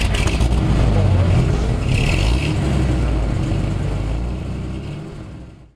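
Car engine revving and running as a sound effect, a deep rumble that fades away over the last second.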